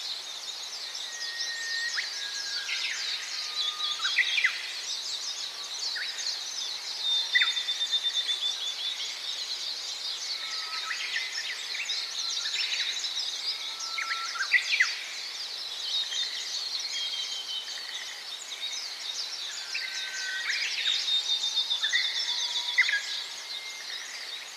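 Many small birds chirping at once, a dense continuous chatter of high chirps, with scattered clearer whistled notes lower down, some sliding up or down in pitch.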